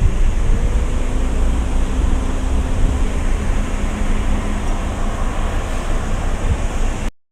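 Wind buffeting the phone's microphone over a steady low rumble of outdoor vehicle noise, cutting off suddenly near the end.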